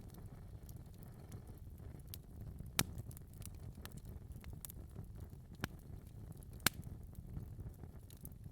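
Wood fire burning in a fireplace with a low rumble of flames and scattered crackles, two louder pops standing out about three seconds in and near seven seconds.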